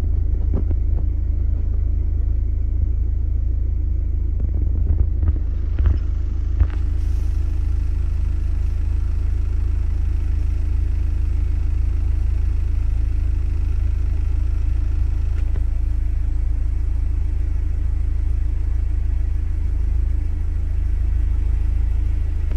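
Honda S2000's 2.0-litre F20C inline-four idling steadily, a low, even rumble heard from inside the cabin. A few light clicks come within the first several seconds.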